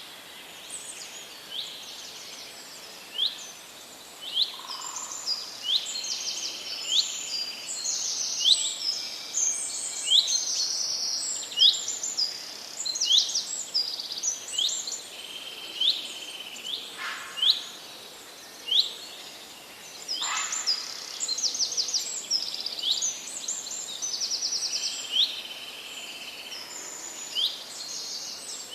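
Several birds singing together. A short, sharp whistled note repeats every second or two, mixed with fast trills and chirps from other birds, over a faint steady background hiss.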